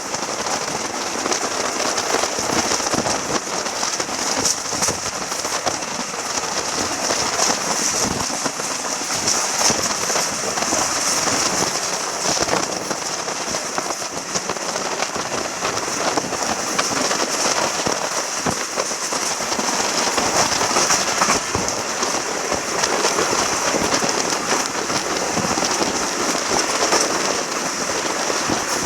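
Running noise of a moving train heard from on board: a steady rush with dense crackling and rattling clicks, without letup.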